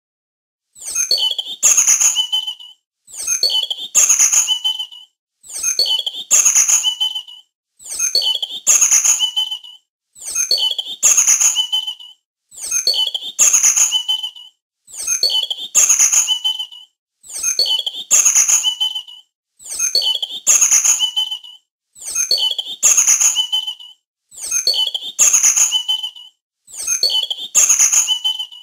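A small animal's high-pitched chirping call, the same short recording looped about twelve times, roughly every two and a half seconds with silent gaps between.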